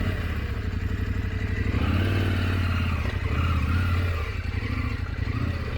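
890 adventure motorcycle engine running at low trail speed over rocks. The throttle swells and eases off a couple of times.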